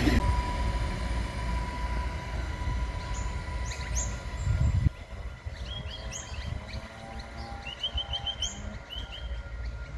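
Low rumble of an Adelaide Metro 3000-series diesel railcar, with a faint steady tone over it, dropping off sharply about five seconds in. Birds chirp throughout, in quick runs of repeated chirps in the second half, over a faint low hum.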